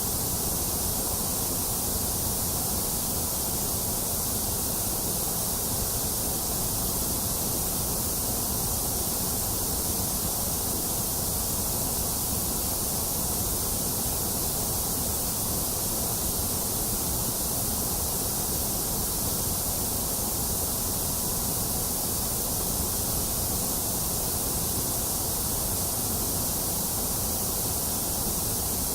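Steady white noise: an even, unchanging hiss that spreads over low and high pitches alike.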